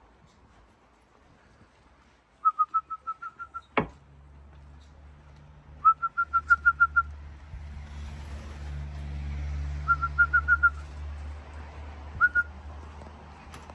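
A person whistling in quick runs of short, repeated same-pitch notes, four times, to call racing pigeons down to the loft. A low rumble builds from about four seconds in, after a single sharp click.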